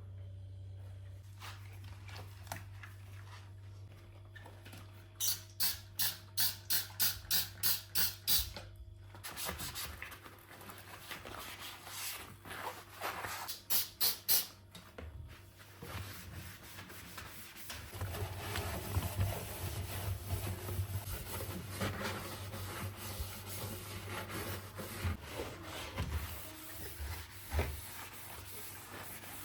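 Rhythmic rubbing strokes, about three a second: a run of about ten, later a short run of four, then steadier continuous rubbing, as of a surface being scrubbed during household cleaning. Soft background music runs underneath.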